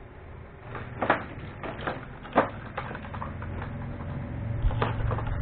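Unboxing handling: scattered clicks and light knocks of plastic parts and packaging being picked up and moved, over a faint low steady hum.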